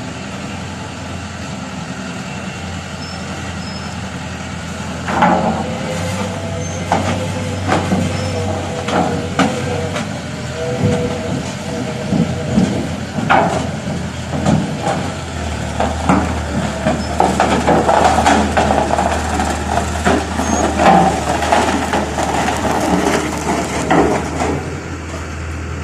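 Heavy truck engine running steadily, its note rising about six seconds in and again about fifteen seconds in, with many metal clanks and rattles and a brief whine.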